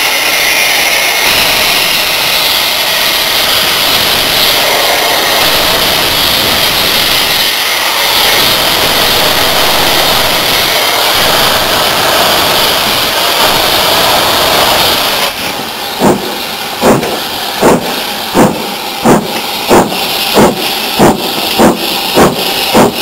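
Steam locomotive with a loud, steady hiss of escaping steam. About fifteen seconds in, the exhaust beats start and quicken from slow, separate chuffs to about two a second as the engine gets under way.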